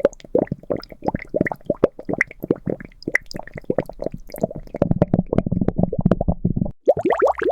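A rapid string of short liquid plops and bubbling gurgles, several a second. Near the end come a few quick bubbles that glide upward in pitch.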